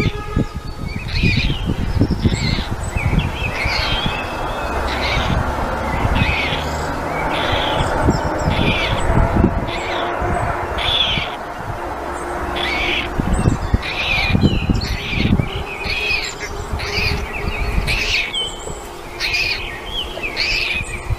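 Birds chirping and squawking in short calls, repeated about one to two times a second, over a low rumbling noise.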